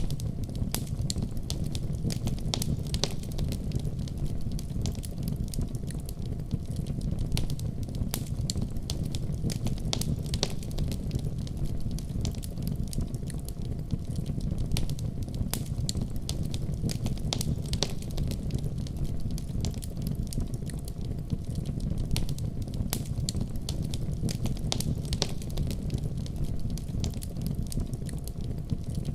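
Wood fire burning in a fireplace, crackling with frequent irregular sharp pops over a steady low rush.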